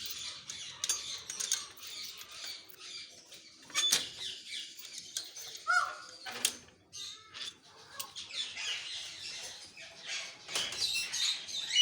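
Many farm-kept birds chirping and twittering together, with wings flapping and a few sharp clicks.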